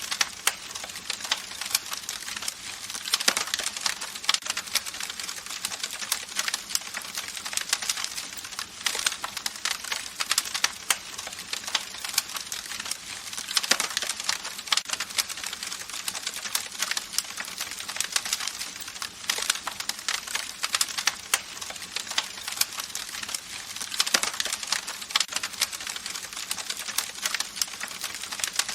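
Campfire crackling: dense, irregular pops and snaps of burning wood over a steady hiss of flames.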